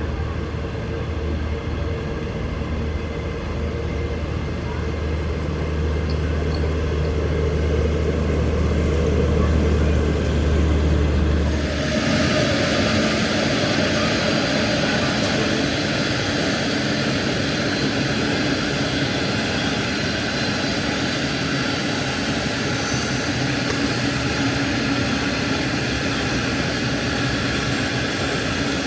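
A train running on the line: a steady deep hum for the first half, then, about twelve seconds in, an abrupt change to a loud, even rushing noise that continues to the end.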